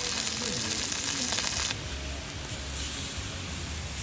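Pork belly sizzling on a cauldron-lid griddle, a dense steady hiss that changes abruptly a little under halfway through to a softer hiss with a low rumble underneath.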